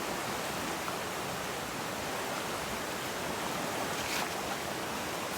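River water rushing steadily over rocks, a constant even hiss of flowing water.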